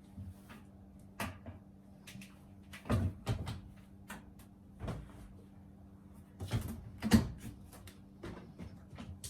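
Scattered knocks and clatter of household things being handled, such as cupboard doors opening and closing, with the loudest knocks about three seconds in and again about seven seconds in, over a faint steady hum.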